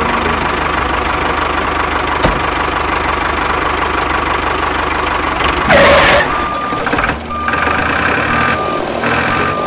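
A miniature tractor's motor running steadily, with a loud noisy burst about six seconds in and a series of short beeps in the last few seconds, like a reversing beeper.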